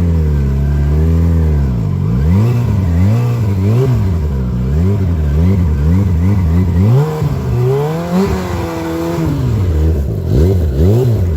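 Sport motorcycle engine revving up and down over and over, about once a second, with one longer, higher rev near the end. The rear wheel is spinning in place in snow: the bike is stuck.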